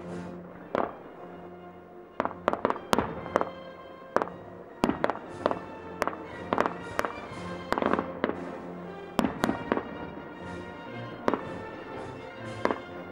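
Aerial fireworks shells bursting: about twenty sharp bangs at irregular intervals, some in quick clusters of two or three, with music playing under them.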